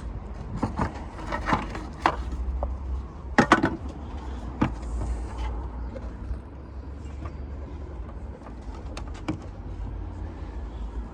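Sharp clicks and knocks of plastic and tools as the Peugeot 308 SW's rear light cluster is worked loose from the body, mostly in the first five seconds and twice more near the end, over a steady low rumble.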